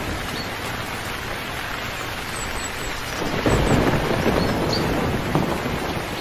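Steady rain falling, with a thunder rumble swelling about halfway through.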